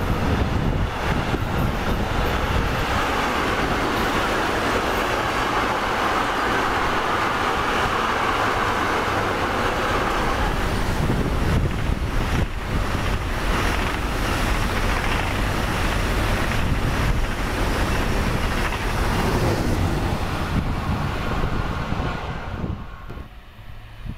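A train passing close by at trackside: loud, steady rolling noise with knocking and rattling in its second half, dying away near the end.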